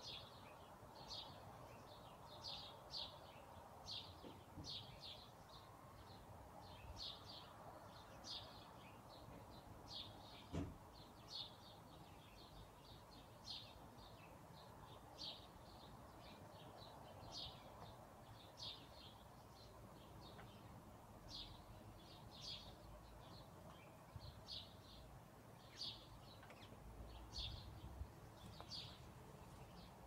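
Birds chirping: short high chirps, about one a second, over a faint steady hiss. A single sharp tap about ten seconds in.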